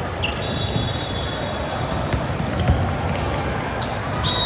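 Indoor basketball game: a basketball bouncing on a hardwood gym court, with a murmur of crowd noise and sharp knocks. A thin high tone sounds briefly at the start and again near the end.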